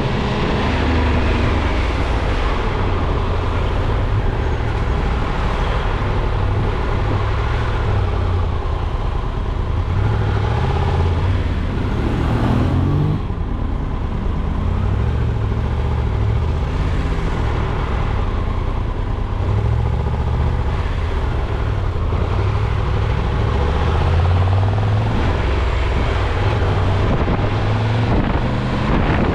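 Steady low rumble of a vehicle on the move: engine and road noise, with a brief rising sweep in pitch about twelve seconds in.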